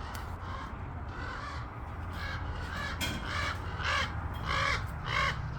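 A bird calling repeatedly in short calls, about two a second, starting about two seconds in and getting louder toward the end, over a steady low hum.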